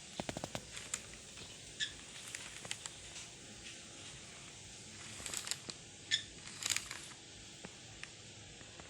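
Lovebirds giving short, high, sharp chirps a few times, with a quick run of small clicks near the start.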